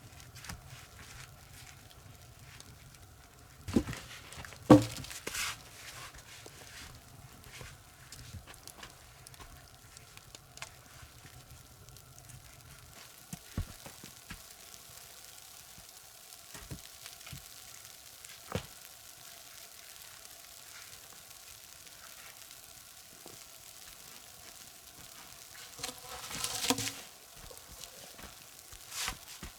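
Wood fire crackling with a faint hiss and small scattered pops, with a couple of louder knocks about four to five seconds in and a louder rustle near the end.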